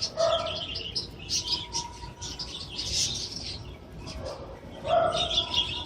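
Birds chirping: many short, high chirps in quick succession.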